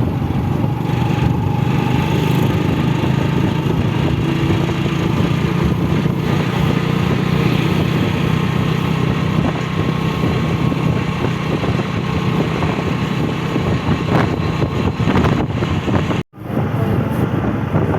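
Steady low rumble of a running vehicle, cutting out abruptly for an instant about sixteen seconds in.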